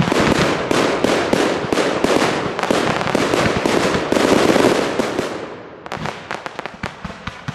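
Fireworks display going off: a dense, continuous barrage of bangs and crackling that thins out after about five seconds to scattered cracks and pops.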